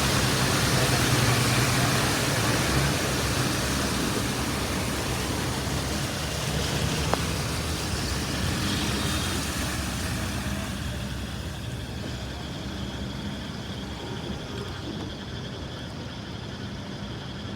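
A car driving through floodwater: a loud rush of water spray from the tyres over a steady engine and road hum. The rushing eases off after about ten seconds, leaving a quieter hum.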